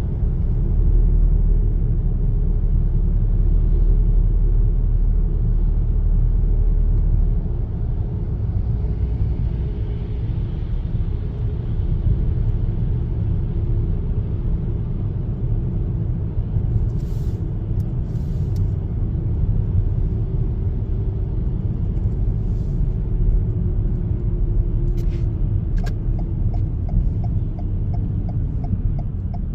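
Car driving: a steady low rumble of road and engine noise, a little louder for the first seven seconds, with a faint engine tone that dips slightly near the end and a few faint clicks in the second half.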